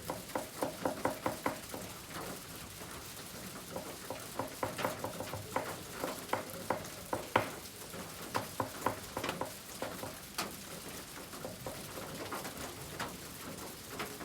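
Malevich oil pastel scratching across kraft paper in quick short hatching strokes, coming in runs of several strokes a second with brief pauses between.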